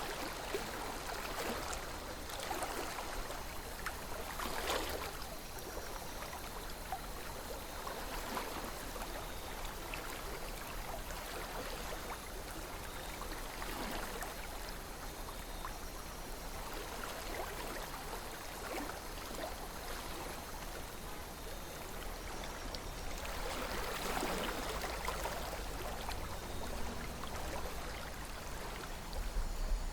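Calm river flowing, water running and gurgling steadily, with a few brief louder swells of water sound.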